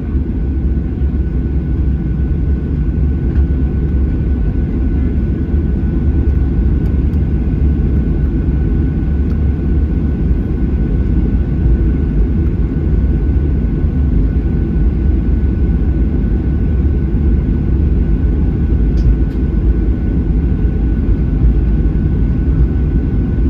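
Cabin noise of a Boeing 737-800 taxiing, its CFM56-7B engines at low power: a steady low rumble with a thin, constant high tone.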